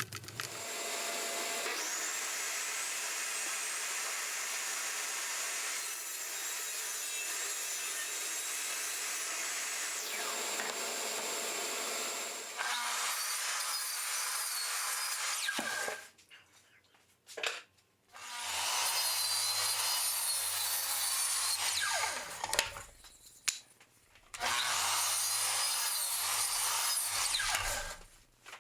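A power tool working wood in four separate runs: a long one, then three shorter ones, each starting and stopping abruptly.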